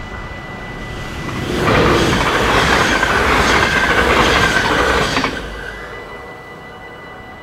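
Dutch passenger train passing at speed over a level crossing: a loud rush of wheels on the rails starts about one and a half seconds in, lasts about three and a half seconds, then fades away. The crossing's warning bell rings steadily behind it.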